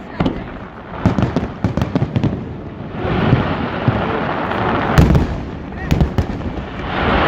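Aerial fireworks going off: a quick run of sharp cracks, then heavier bangs, the loudest about five seconds in and another about a second later, over a steady background of crowd voices.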